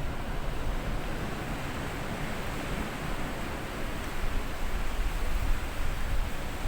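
Small sea waves washing up onto a sandy beach, a steady rushing wash that swells a little near the end.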